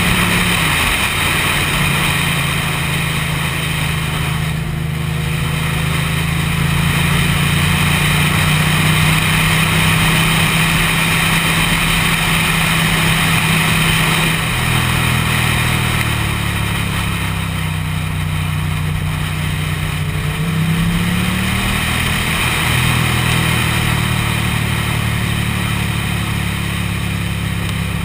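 Motorcycle engine running steadily while riding, with wind rush. The engine note dips briefly about a second in, drops lower around halfway, and climbs back up a few seconds later.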